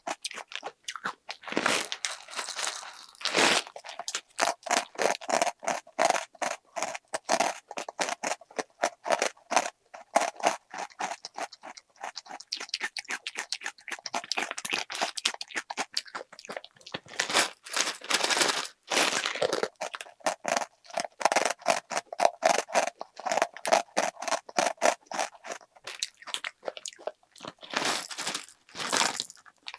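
Close-up chewing of crunchy snacks, a fast, steady run of crunches. A few louder crinkling bursts, from the plastic snack wrappers, come in between, one of them near the end as a packet is tipped into the mouth.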